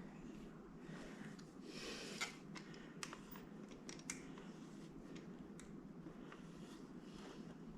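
Faint scattered clicks and handling noises from a makeshift caulking gun, a C-clamp duct-taped on, squeezing anchoring epoxy into drilled holes in concrete. A low steady hum runs underneath.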